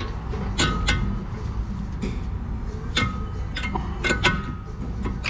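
Several sharp metallic clinks, spaced irregularly and some with a brief ring, as metal tools and suspension parts knock together while a sway bar link is worked into place; a steady low hum runs underneath.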